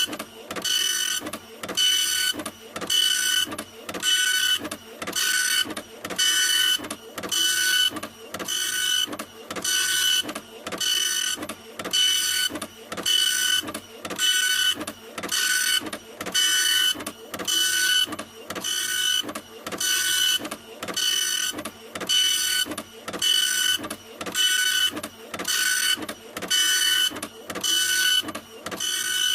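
Printer running continuously, printing in an even rhythm of about one stroke a second, each stroke a whirring pass with a high whine.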